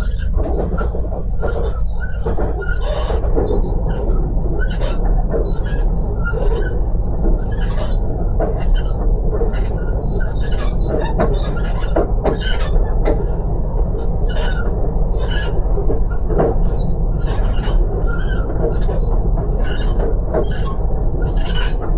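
Passenger train running at speed, heard from inside the carriage: a steady, loud rumble broken by frequent short, irregular clatters and rattles from the wheels and the carriage.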